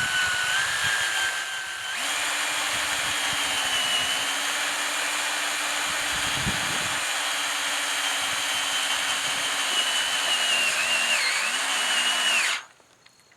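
Power drill running steadily under heavy pressure, driving a self-drilling Tek screw into the steel hoop tubing; the screw is still boring through two thicknesses of metal before its threads grab. The motor's pitch steps up about two seconds in, wavers near the end, and the drill stops suddenly about a second before the end.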